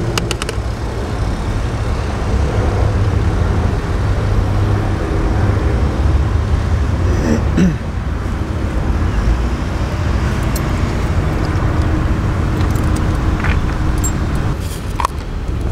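A vehicle engine running steadily nearby: a constant low rumble with a faint steady hum over it.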